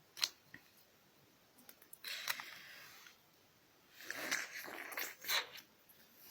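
Quiet mouth noises of eating a soft blue jelly candy: a click near the start, then short bursts of sucking and slurping about two seconds in and again around four to five seconds in.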